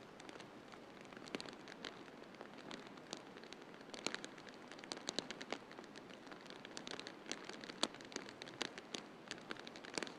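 Wood fire crackling in a fireplace: irregular sharp pops and snaps, some in quick clusters, over a steady soft hiss.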